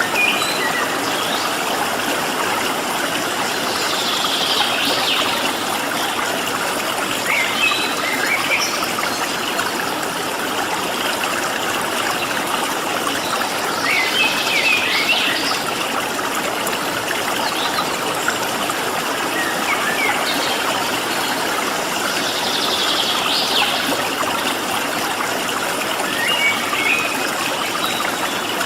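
Water running steadily in a stream, with short bird chirps and calls breaking in every few seconds over it.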